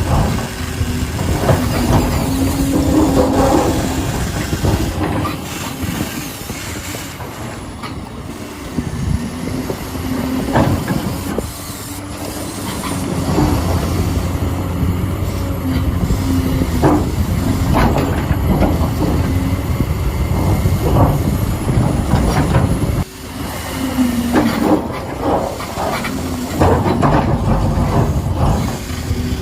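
Huina 1593 radio-controlled excavator working: its small electric motors and plastic gearboxes whine in repeated bursts as the functions start and stop, with rattling and clicking from the tracks and gears.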